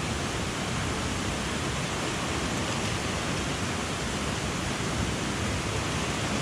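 Steady rushing of a mountain stream, an even wash of water noise with no change in level.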